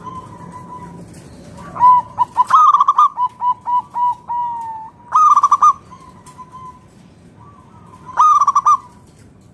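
Zebra dove cooing: a rapid run of short staccato coos starting about two seconds in, then two brief bursts of trilled coos about three seconds apart.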